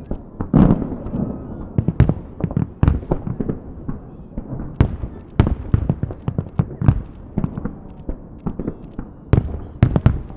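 Festive fireworks salute going off: many sharp bangs in quick, irregular succession, several a second, each with a short echo.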